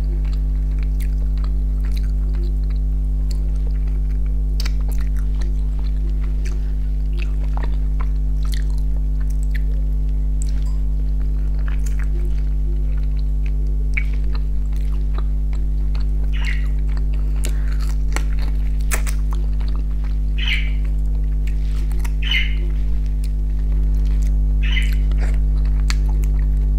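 Chewing and lip-smacking on fried fish picked apart with the fingers, with many small mouth clicks and a few short louder smacks in the second half, over a steady low hum.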